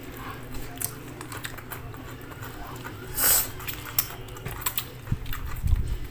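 Close-up eating sounds: people chewing and biting into rice and spicy chicken eaten by hand, with small wet clicks and one short louder rush of noise about three seconds in, over a low steady hum.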